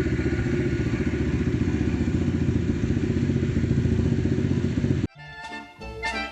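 A 125cc single-cylinder, four-stroke, air-cooled pit bike engine running steadily. About five seconds in the engine sound cuts off abruptly and music begins.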